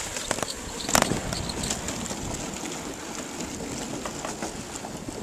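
Steady rushing noise while riding a bicycle fast, with a few sharp clicks and rattles, the loudest about a second in.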